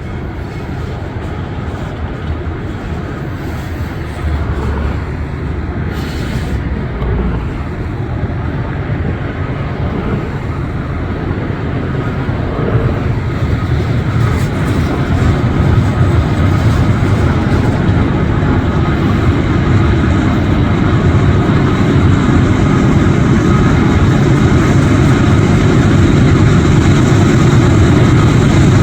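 Heavy loaded coal train rolling past, with its mid-train GE diesel distributed-power locomotives working hard up the grade, their engine rumble growing steadily louder as they approach.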